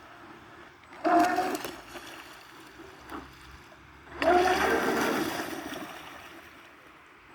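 Twin electric motors of a radio-controlled model boat whining under throttle with water splashing, in two bursts: a short one about a second in and a longer one from about four seconds in that slowly fades.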